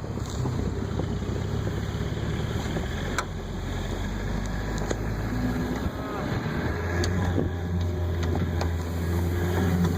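Pickup truck engine running while it tows a sled through snow, its note changing about six seconds in, over a steady rushing noise.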